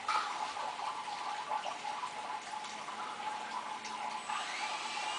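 Small electric RC helicopter after landing: a steady whirring hiss, then about four seconds in its motor spins up with a rising whine that levels off.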